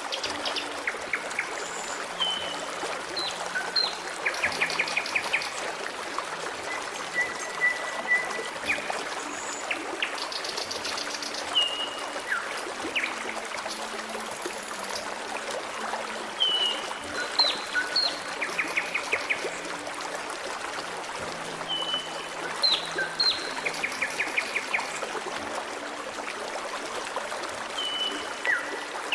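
Forest stream flowing with a steady rush of water, with small birds calling over it in short chirps, quick trills and downward-sliding whistles that recur every few seconds.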